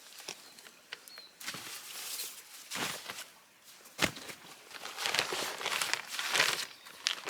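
Irregular crunching and rustling of someone moving about on a dry pine-woodland floor, steps snapping small twigs, with a sharp snap about four seconds in.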